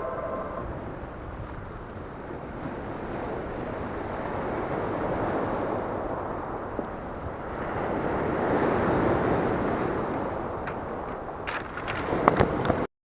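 Sea waves washing onto the shore in slow swells, with wind noise on the microphone. A few sharp clicks come near the end, just before the sound cuts off.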